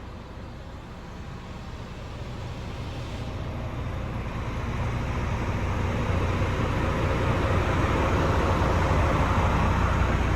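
Tractor unit's DXi 460 diesel engine running, growing steadily louder over the first several seconds and then holding at that level.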